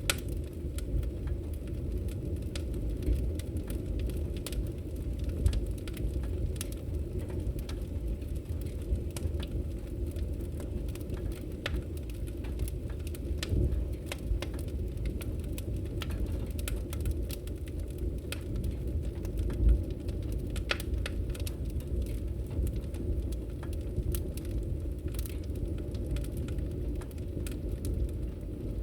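Log fire burning in a fireplace: a steady low rumble of flames with scattered crackles and pops from the burning wood, a few louder pops standing out.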